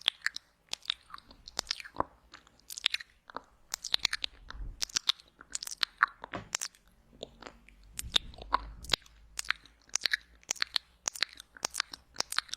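Close-miked wet mouth sounds for ASMR: rapid, irregular lip smacks, tongue clicks and saliva sounds, several a second, as in simulated ear eating.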